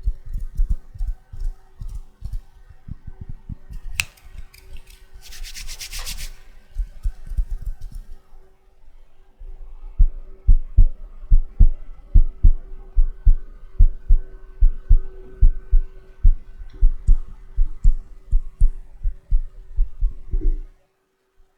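ASMR hand sounds close to the microphone: hands rubbing and patting, with a brief rustling swish about five seconds in. From about ten seconds in there is a steady run of dull low thumps, about three a second, which stops suddenly near the end.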